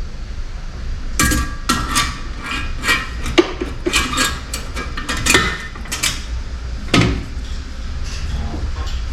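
Metal clanking and clinking: about a dozen sharp knocks with a ringing tail as a welded steel exhaust downpipe and tools knock together while the downpipe is bolted up, over a steady low rumble.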